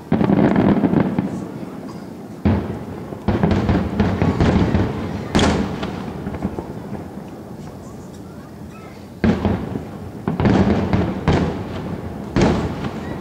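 Aerial fireworks shells bursting one after another, each a sudden boom trailing off into crackle; a cluster of bursts in the first five seconds, a lull, then another run of bursts near the end.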